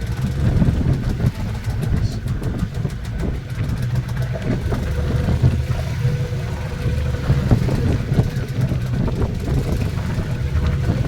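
Glass-bottom boat's engine running steadily, a low hum with a faint steady tone above it.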